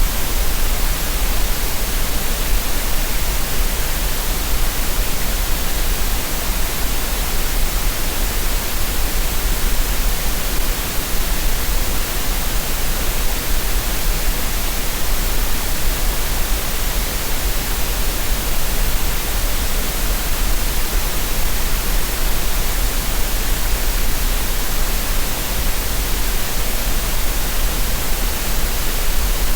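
Steady synthetic green noise for relaxation: an even, unchanging hiss with a deep rumble underneath.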